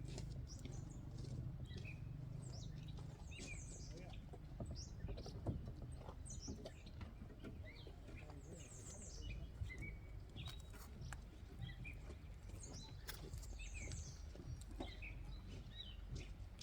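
Small birds chirping and twittering, short calls and trills scattered irregularly, over a steady low background rumble.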